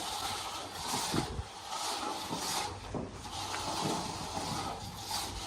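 Irregular swishing scrapes on the floor, roughly one every half second to a second, over a steady low hum.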